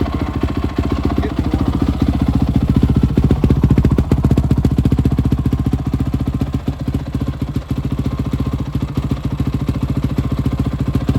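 2005 Honda CRF450's carbureted single-cylinder four-stroke engine running at a steady idle, warming up after sitting unstarted for about six months.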